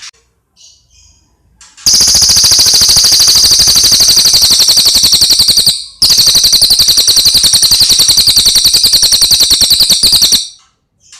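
Cililin bird song: a few faint short chirps, then a very loud, very fast rattling trill about two seconds in that lasts about four seconds, breaks off briefly, and runs for another four seconds.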